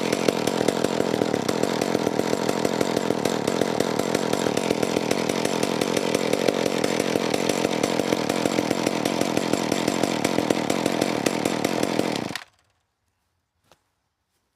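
McCulloch Power Mac 310 two-stroke chainsaw engine running steadily just after a cold start, then cutting out abruptly about twelve seconds in. A faint click follows about a second later.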